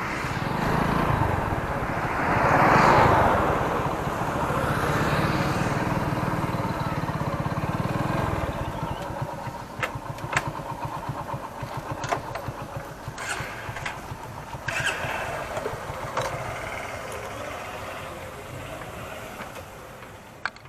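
Motorcycle engine starting and running, with a loud rush of noise about three seconds in. After about eight seconds it settles into a regular low beat that grows steadily quieter.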